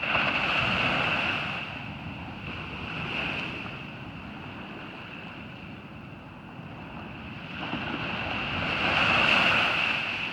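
Ocean surf washing onto a beach, swelling louder twice, over a steady high hiss.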